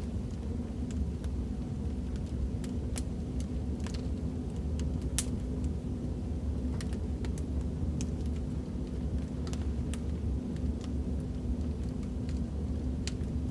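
Wood fire in a fireplace burning: a steady low rumble with sharp crackles and pops at irregular intervals.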